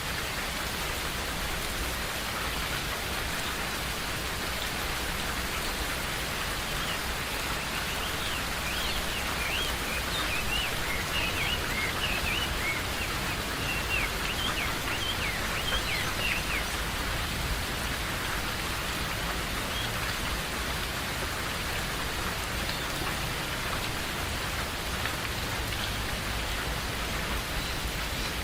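Steady rain falling, an even hiss. From about 8 to 17 seconds in, a bird chirps quickly over it in short, high notes.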